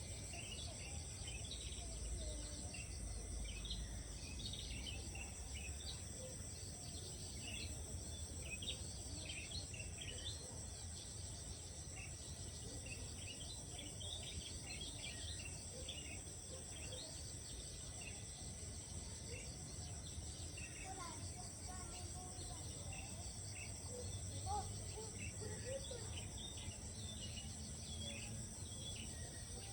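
Morning rice-field ambience: insects drone steadily and high-pitched, while birds give many short chirps and calls throughout, over a low rumble.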